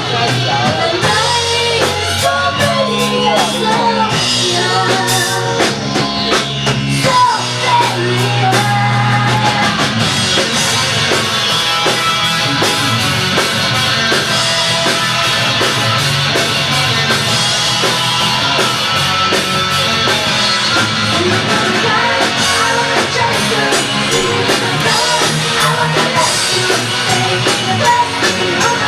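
A rock band playing a song with drum kit and guitar, a singer's voice carrying the melody.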